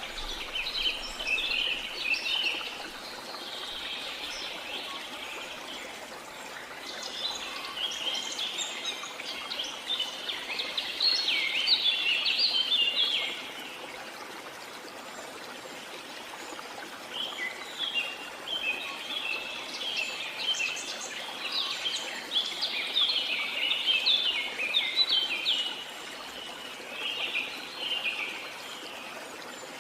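Songbirds singing in long bouts of rapid chirps, pausing for a few seconds between bouts, over the steady rush of falling water from a waterfall.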